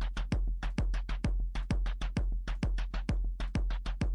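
Electronic background music with a fast, steady drum-machine beat of about four to five strokes a second, each a deep kick drum with a crisp high click.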